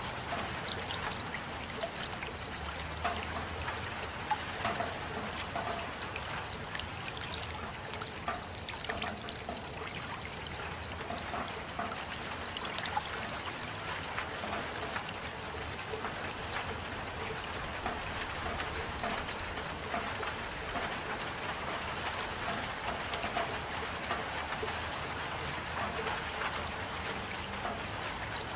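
Steady rainfall with water trickling and dripping, many small individual drops ticking over a continuous wash.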